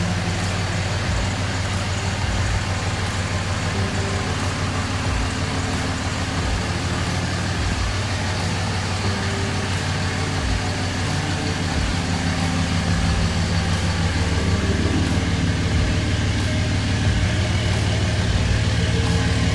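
Ram 3500's Cummins inline-six turbodiesel idling steadily after its oil change, a little louder in the second half.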